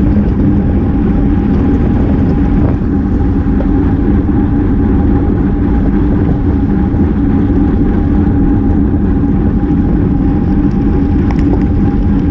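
Wind rushing over the microphone of a bike-mounted GoPro at road-race speed: a loud, steady low rumble.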